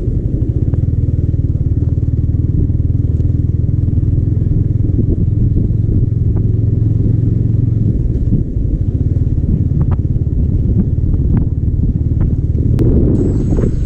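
Yamaha R15 V4's single-cylinder engine running at a steady speed under way, with wind buffeting the microphone.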